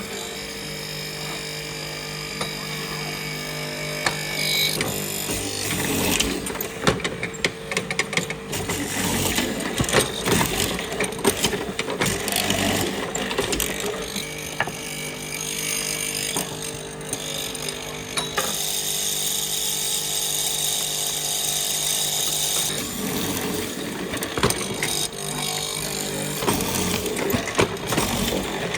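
Woodworking power tools at work: a steady motor whine in stretches, broken by runs of irregular clicks and knocks.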